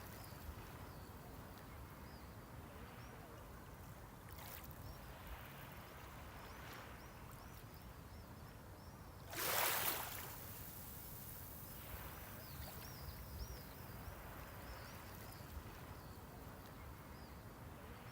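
Small sea waves lapping at the shoreline, with one louder wave breaking and washing up about nine seconds in.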